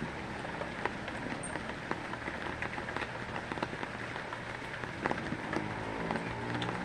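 Steady heavy rain falling on a surface, with many separate drops ticking through the hiss.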